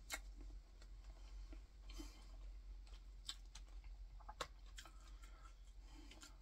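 Faint, scattered mouth clicks and light smacks of someone chewing close to the microphone, about a dozen separate clicks with the sharpest right at the start.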